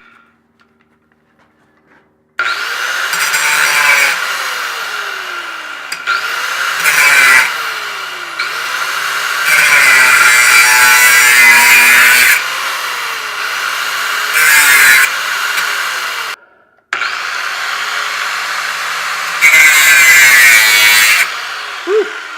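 A power tool starts about two and a half seconds in and runs with a steady high whine. Several times it gets louder and harsher as it bites into the work. It cuts out for a moment midway, then runs again.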